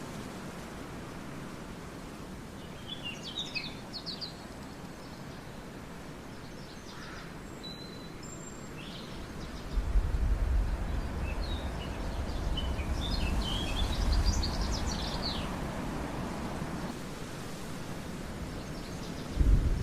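Birds chirping in short high bursts over a steady outdoor hiss: one group about three seconds in and a longer run around the middle to three-quarters. About halfway through a heavy low rumble sets in and stays.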